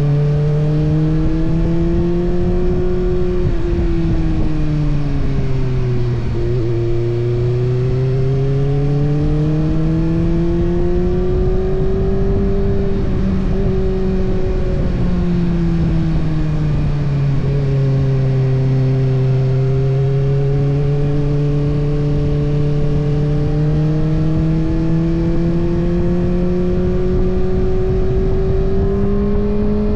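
Kawasaki ZX-6R's inline-four engine running under way, heard close up from the fuel tank, its pitch rising and falling over several seconds as the throttle opens and closes. The pitch drops sharply about fifteen seconds in, then climbs again, over a steady rush of wind and road noise.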